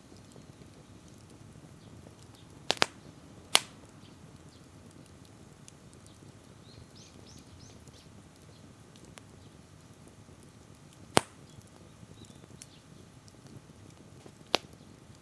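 Wood fire burning with a low, steady rustle and five sharp crackling pops at irregular intervals.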